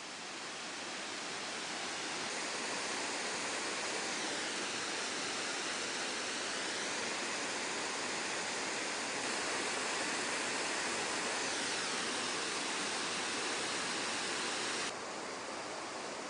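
Steady rushing hiss of a waterfall's falling water, dropping slightly in level near the end.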